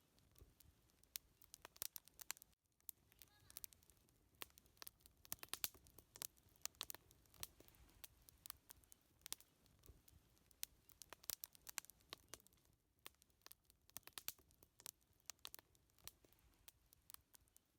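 Wood fire crackling faintly, with irregular sharp snaps, at times several a second.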